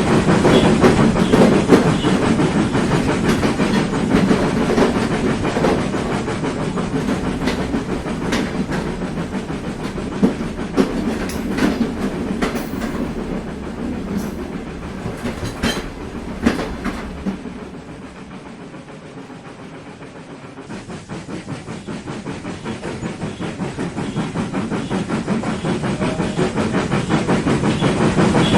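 A 00 gauge model train running on its track, a fast rattle of wheels and motor with sharp clicks over the rail joints. It fades as the train moves away, is quietest about two-thirds of the way through, then grows louder again as it comes back.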